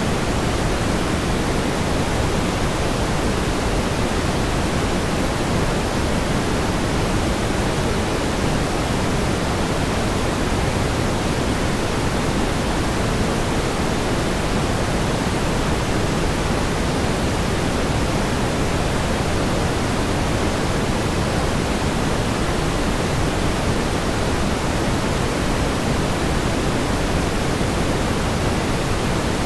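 Steady synthetic pink noise: an even, unchanging hiss, weightier in the low end than white noise, with no events or variation.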